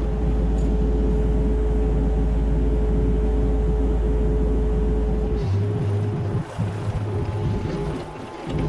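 Mini excavator's diesel engine and hydraulics working under load, a steady deep rumble with a held whine that changes about five seconds in as the load eases.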